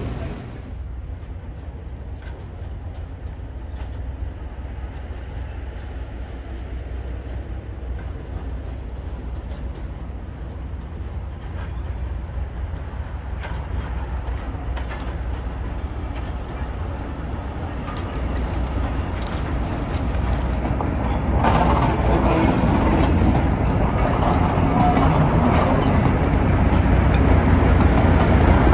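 A train running on rails: a steady low rumble with occasional clicks, growing clearly louder about three quarters of the way through.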